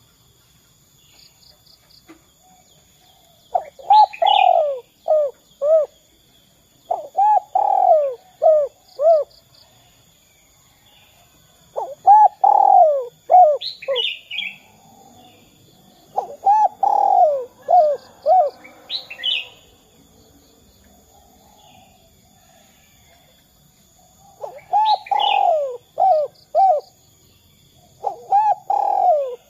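Spotted dove (derkuku) cooing: about six phrases, each a run of several low coos, repeating every few seconds with pauses between. Faint high chirps of small birds sound in the background.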